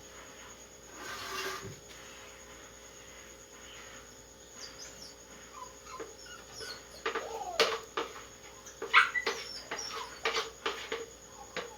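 Sharp knocks and clinks of kitchen utensils against pans, coming in a busy run from about seven seconds in, with short high whining sounds before and between them.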